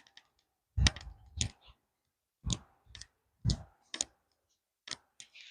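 A series of sharp metallic clicks and knocks, about seven, spaced irregularly half a second to a second apart, as a nut and tools are handled on a car's wheel hub assembly.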